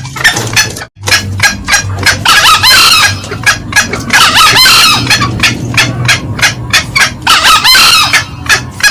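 Green junglefowl calls: a fast, steady run of short clucks, about five a second, from the cackling hen, broken three times by the cock's longer, harsh crow. A loud lure-call recording, with a brief dropout just before a second in.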